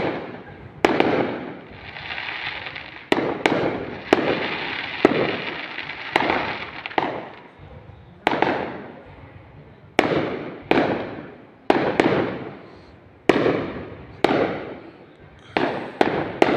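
Fireworks going off: a string of loud sharp bangs at uneven intervals, each followed by a rumbling echo that fades over about a second.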